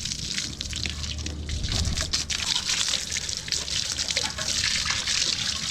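Water spraying and splashing over a motorcycle as it is rinsed off, with a steady hiss and small patters of dripping.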